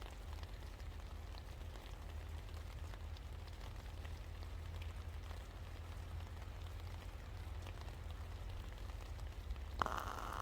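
Steady rain falling, with scattered drops ticking over a low steady rumble. Near the end a louder hiss sets in suddenly.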